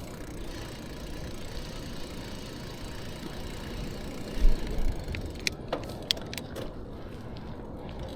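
A steady low rumble, then a dull thump about halfway through, followed by a quick run of light metallic clicks and jingles, like keys or bike parts being handled.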